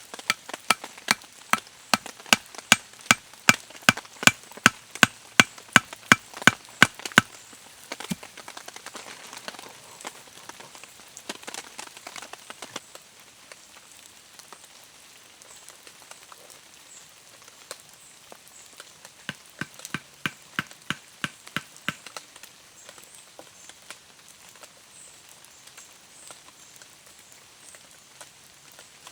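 Wood being chopped with a blade: quick, sharp strikes at about three a second in a long run, then a few scattered strikes and a second, shorter run of about a dozen. Rain patters steadily underneath.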